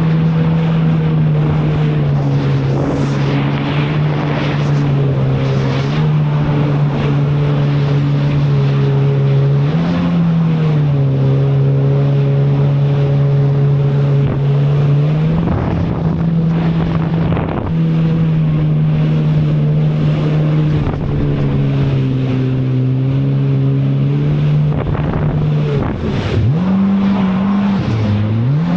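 Personal watercraft (jet ski) engine running hard, its pitch stepping up and down as the throttle changes, with a sharp drop and climb in revs near the end. Wind and water rushing noise runs under it.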